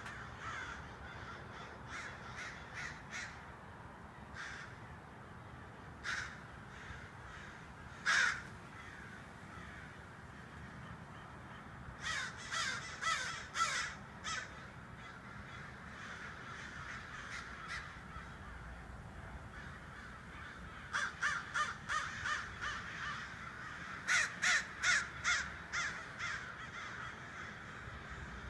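A flock of birds calling: a steady background chatter of many birds, broken by loud harsh calls. The calls come singly or in quick runs of four to eight, with a cluster a little before the middle and more near the end.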